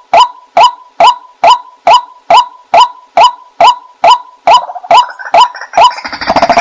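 White-breasted waterhen call: a short, slightly falling note repeated steadily about twice a second. From about four and a half seconds in, more overlapping calls join and thicken into a busy clamour near the end.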